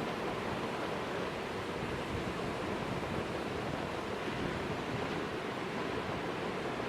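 Heavy winter storm surf breaking along a rock jetty: a steady rush of water with wind, no single crash standing out.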